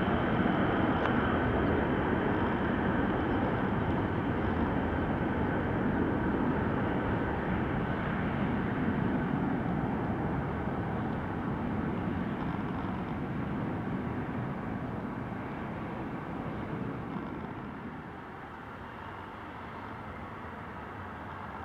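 Cargo jet's engines at takeoff power during the takeoff and climb-out, a steady noise that slowly fades as the aircraft climbs away.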